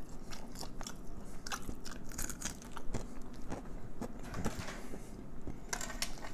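Close-miked chewing and crunching of crispy fried Cornish hen, many short sharp crunches. Near the end, a longer crackle as the fried hen is pulled apart by hand.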